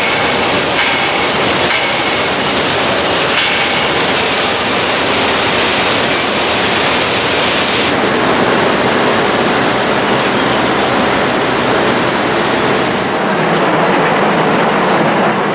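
Loud, steady rushing noise with faint low hum, its tone shifting about eight seconds in and again near the end.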